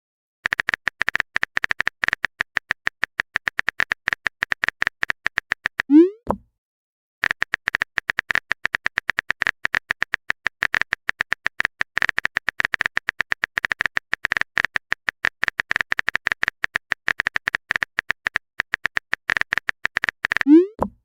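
Chat-app typing sound effect: rapid trains of short, even clicks, pausing briefly about six seconds in. A short rising pop, a message-sent tone, sounds at that pause and again near the end.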